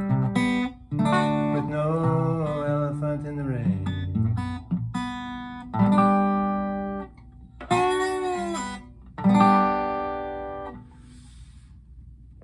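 Acoustic guitar finishing a song: a busy run of chords, then four separate strummed chords, each left to ring out. The last one fades away about eleven seconds in.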